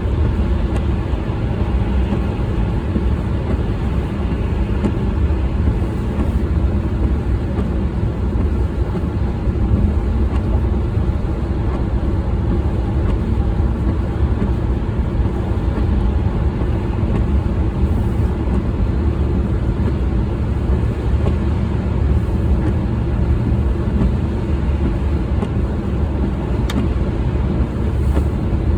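A car driving: a steady low rumble of engine and road noise with no change in pace.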